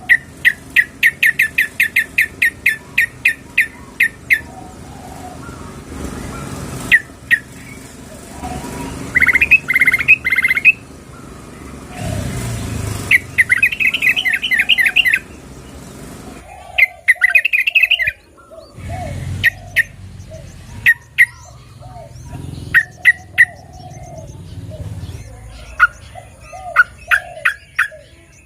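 Yellow-vented bulbuls calling, said to be a female calling to a male. The calls are runs of short, sharp chirps, about four a second at first, then two denser bursts in the middle and scattered single notes toward the end, over a low background rumble.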